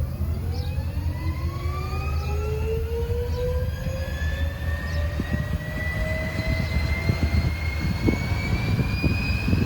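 Model aircraft engine run as a fan, spinning up: a whine that rises slowly and steadily in pitch over a continuous low rushing rumble.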